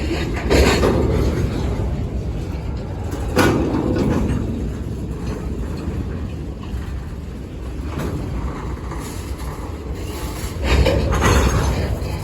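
Freight train cars rolling slowly past, a steady low rumble with three louder noisy surges: one about half a second in, one a few seconds later and one near the end.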